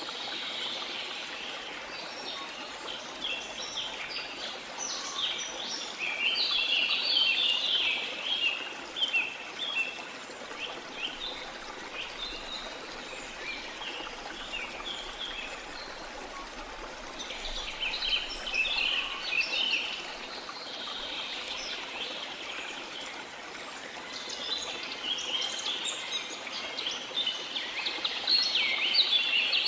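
Steady rush of waterfall water, with birds chirping in bursts of rapid high calls that come and go three times.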